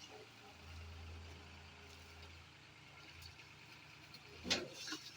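Tractor diesel engine running faintly with a low steady hum. About four and a half seconds in, a brief sharp sound rises above it, followed by a smaller one.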